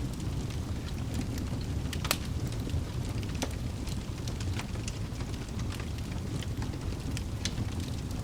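Wood fire burning in a fireplace: a steady low rumble of the flames with irregular sharp crackles and pops from the logs, one louder pop about two seconds in.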